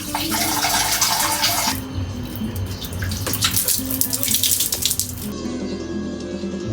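Water running from a tap into a sink in two spells, over quieter background music. Near the end the water stops and guitar music takes over.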